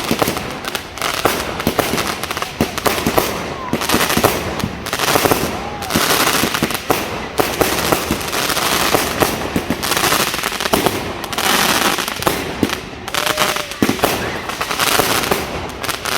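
Fireworks going off without a break: rapid crackling and many sharp bangs in quick succession.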